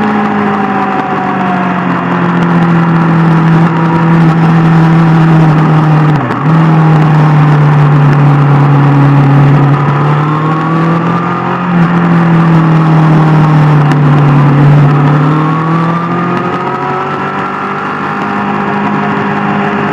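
Superbike inline-four engine running at a steady cruise, its pitch drifting slowly down and up, with a brief dip about six seconds in.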